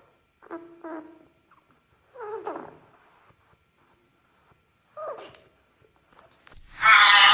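Four short whimpering animal calls, each sliding down in pitch, then a loud dense sound starts near the end.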